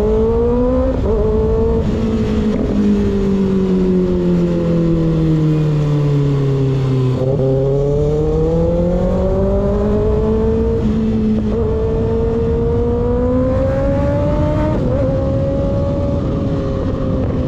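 Motorcycle engine with an unbaffled slip-on exhaust running under way, its pitch rising, easing slowly down for several seconds, then climbing gently again with a few small steps, over a steady rush of wind noise.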